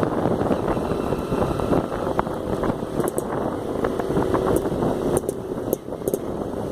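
Motorcycle engine running on the move, a steady rumble with a few sharp clicks in the second half.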